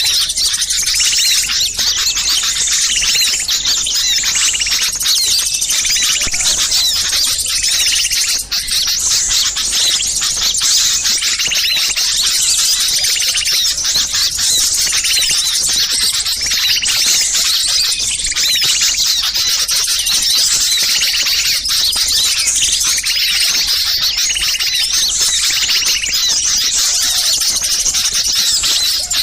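A dense, continuous chorus of many small songbirds chirping and calling at once, shrill and high-pitched: a noisy small-bird flock recording of the kind played as a lure to draw wild birds in.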